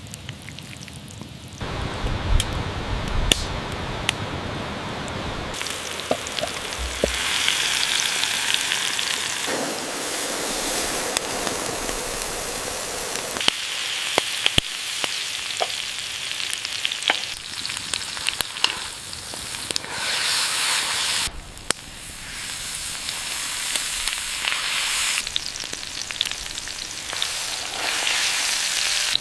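Ribeye steak searing on a hot stone: a steady sizzle with scattered sharp pops of spitting fat. It starts about a second and a half in and swells and drops in sections.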